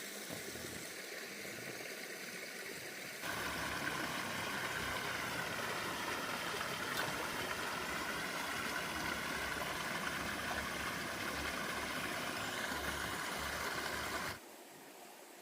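Steady rush of running water, louder from about three seconds in and cutting off abruptly near the end.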